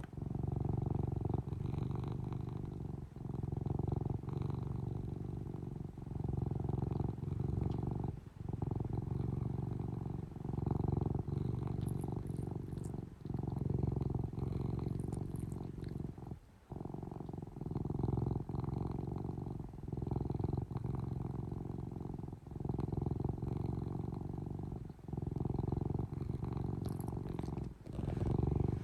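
Domestic cat purring close to the microphone, a low rumble that swells and dips in a steady rhythm of about one cycle every second and a half as the cat breathes in and out.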